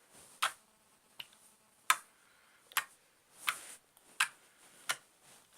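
Homemade clear slime being squeezed and stretched by hand, giving sharp wet pops about every three-quarters of a second, seven in all, as trapped air bubbles burst.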